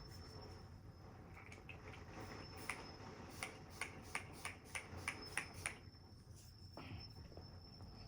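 Setting spray pump bottle spritzed about nine times in quick succession, each a short sharp spray, roughly three a second.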